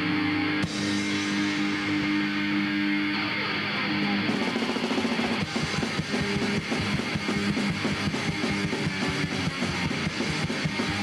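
Punk rock band's instrumental intro: electric guitar holding a chord, then about four seconds in the drums and full band come in fast and hard.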